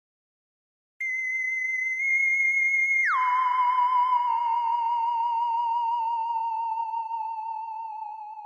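A single electronic tone with a slight waver starts about a second in, holds high for about two seconds, then glides down about an octave and holds there, slowly fading away.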